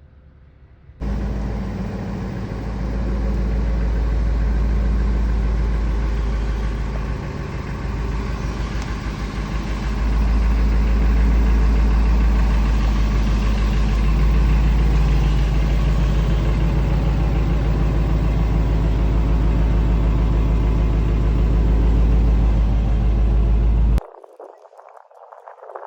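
The 2001 Ford SVT Lightning's supercharged 5.4-litre V8 running with a deep, steady rumble. It starts suddenly, grows louder twice, and cuts off abruptly near the end.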